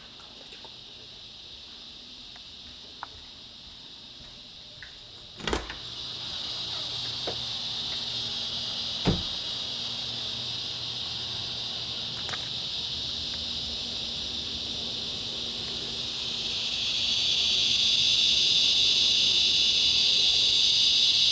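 Chorus of cicadas droning steadily, loud and high-pitched. A thump about five seconds in is followed by the chorus sounding louder, with a second knock a few seconds later. The chorus swells further near the end.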